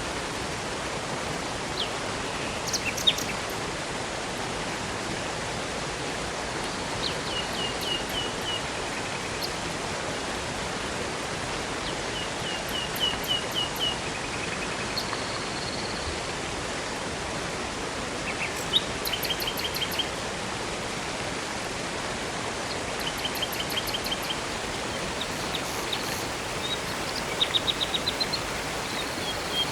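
Steady rushing of a river and waterfall. Over it, songbirds chirp every few seconds, some calls as quick runs of repeated high notes about a second long.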